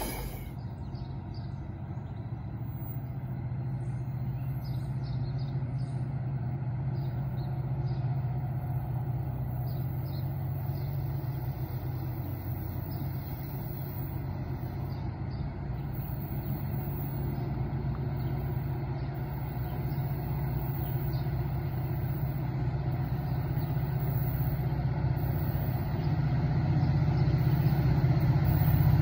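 A steady low engine hum from a train approaching in the distance, growing gradually louder over the last several seconds.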